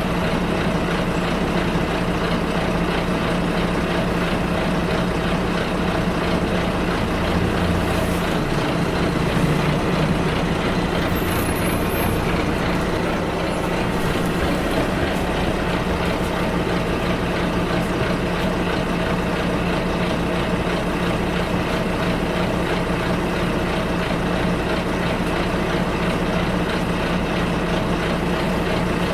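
Bus engine running with steady road noise, heard from inside the bus, with a slight swell about a third of the way in and brief faint high squeaks soon after.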